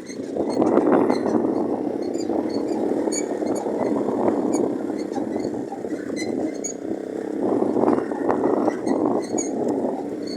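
Orion-100 moped riding, its small engine running under rushing wind on the microphone, the noise swelling about half a second in and again near the end, with light ticking rattles.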